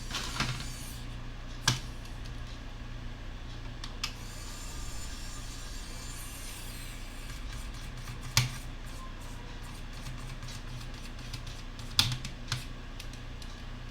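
Small screws and tools being handled on a laptop's plastic case during reassembly: a few sharp clicks and taps, three of them louder and several seconds apart, over a steady low hum.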